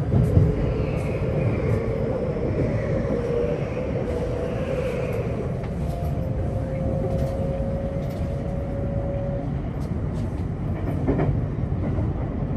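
Electric commuter train on the Osaka Loop Line running between stations, heard from inside the car: a steady rumble of wheels on rail with scattered clicks. Over it a thin motor whine slowly rises in pitch and stops about nine seconds in.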